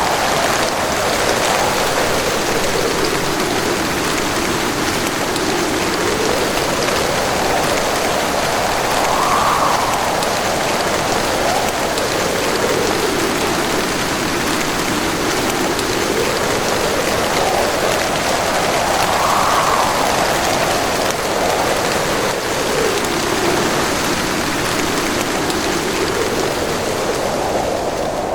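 Steady rush of heavy rain, with a whooshing tone that swells up and falls back roughly every ten seconds.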